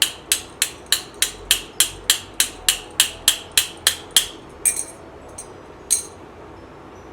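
Steady hammering with an improvised tool, about three strikes a second, knocking a stuck part out of a motorcycle's brake lever mount. The strikes stop about four seconds in, followed by two or three lone taps.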